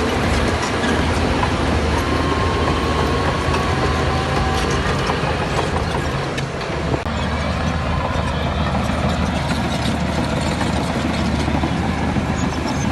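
Bulldozer's diesel engine running steadily under load, with the metallic clanking and squeaking of its steel tracks; a short dip and sharp click about seven seconds in.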